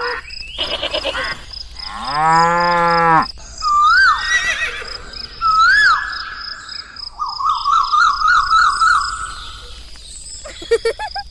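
A string of cartoon-like sound effects: a long low animal-like call, then two whistles that rise and fall, then a quick warbling whistle.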